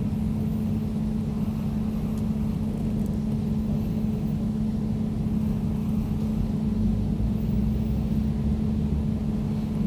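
Air conditioner running steadily: a constant low hum with one strong steady tone and a rumble beneath it.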